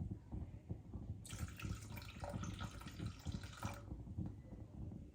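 Water running from a tap for about two and a half seconds, starting about a second in and shut off near the middle, over soft knocks of handling.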